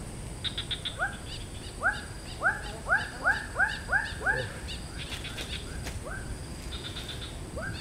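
A bird calling: a run of short upswept notes, about three a second, that fades out after a few seconds and starts again near the end. Brief bursts of rapid higher ticking come in between.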